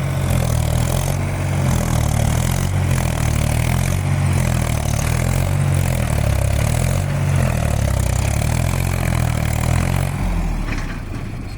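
Tractor diesel engine running hard under load with a deep, steady note, easing off about ten seconds in.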